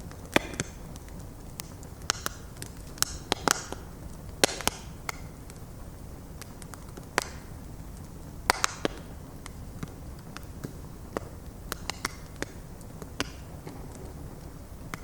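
Bonfire of stacked logs burning: a steady low rumble of flames with wood crackling and popping at irregular intervals, some pops with a short hiss after them.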